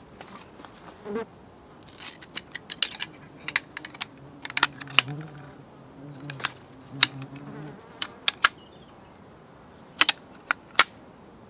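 A flying insect buzzing for a few seconds in the middle, among a scatter of sharp clicks and knocks.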